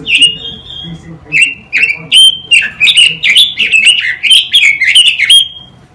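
A quế lâm songbird singing a rapid, varied run of loud whistled notes that sweep up and down. There is a short pause about a second in, then the notes come faster until they stop near the end.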